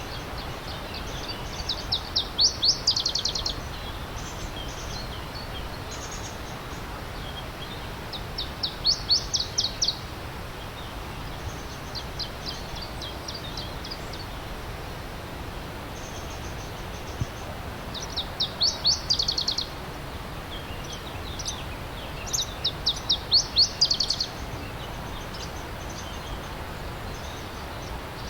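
A songbird singing short phrases of quickly repeated high notes, four louder phrases each a second or two long and fainter ones between, over the steady rush of a stream.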